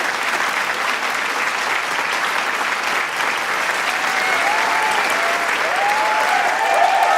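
Large crowd applauding steadily, with cheering voices and shouts joining in from about four seconds in and growing louder toward the end.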